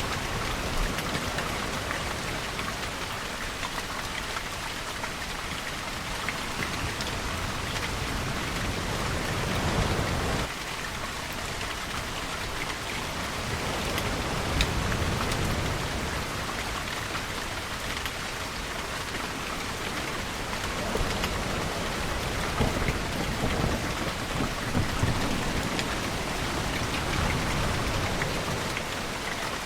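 Steady, heavy rainfall with low rumbles of distant thunder swelling and fading several times.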